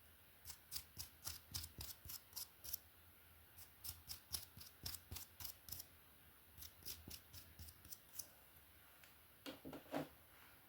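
Quick, crisp strokes of a brush through hair, several a second in runs, with a short pause around the middle. About three-quarters of the way through come a few duller knocks, the loudest sounds.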